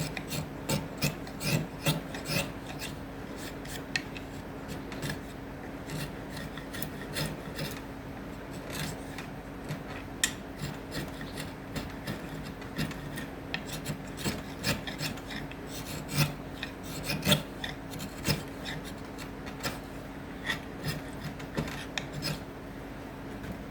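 Teeth of an acacia wood comb being smoothed by hand: irregular, quick scraping strokes of an abrasive against the wood. A steady low hum runs underneath.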